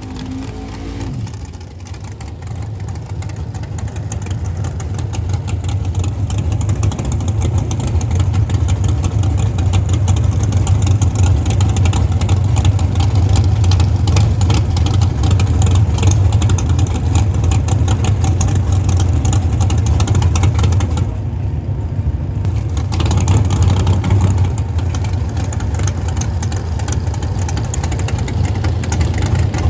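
Drag racing car engine running loudly and continuously, building over the first ten seconds and then holding steady, with a brief dip in its higher sound about three-quarters of the way through.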